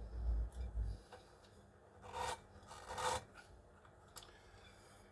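Hands handling equipment: a low bump and rumble in the first second, then two brief scraping rubs about two and three seconds in.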